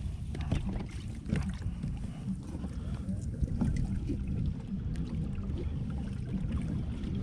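Kayak on the water: a steady low rumble of wind on the microphone, with water lapping and small irregular knocks and splashes against the hull.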